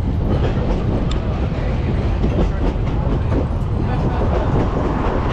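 Passenger train running along the track, heard from aboard: a steady loud rumble with scattered clicks and knocks from the wheels and carriages.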